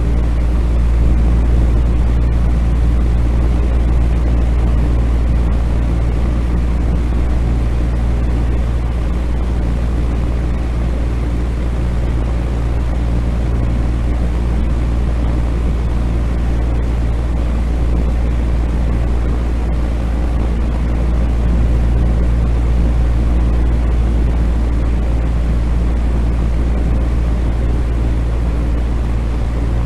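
Steady, unchanging rumbling noise of a sleep white-noise track, heaviest in the low end with a constant deep hum underneath.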